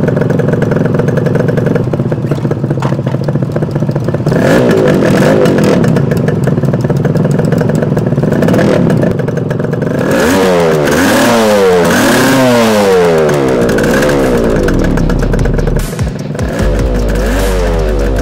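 Suzuki GT380's air-cooled two-stroke triple idling, then revved repeatedly, its pitch rising and falling with each blip of the throttle. The strongest run of revs comes a little past the middle, with more revs near the end.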